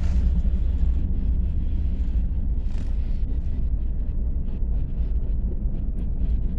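Norfolk Southern freight train of hopper cars rolling through a grade crossing: a steady low rumble with scattered light clicks, heard from inside a car.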